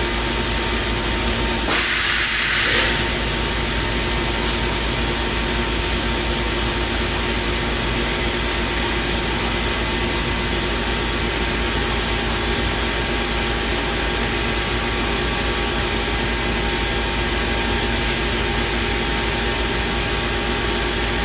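Morbidelli Universal NB 3615 CNC router running with a steady machine hum made of several steady tones. About two seconds in comes a loud hiss lasting about a second.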